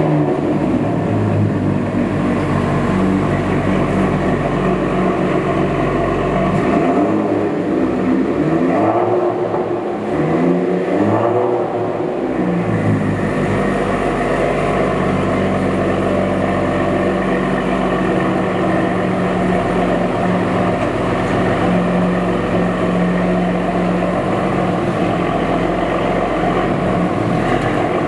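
BMW 335i's N55 turbocharged inline-six running through an AWE Tuning cat-back exhaust with performance midpipe, idling with a few quick rev blips about a third of the way in, then settling back to a steady idle.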